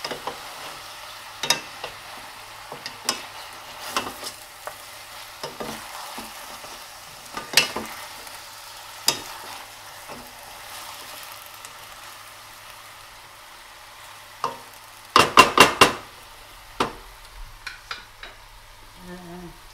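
Chicken pieces with onions and fresh basil and parsley frying in olive oil in a stainless steel pan, a steady sizzle, stirred with two wooden spoons that clack against the pan now and then. About fifteen seconds in comes a quick run of about five clacks.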